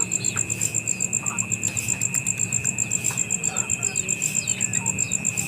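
Insects trilling: a high-pitched, even pulse of about ten beats a second over a second steady, lower insect tone, with short bird chirps scattered through.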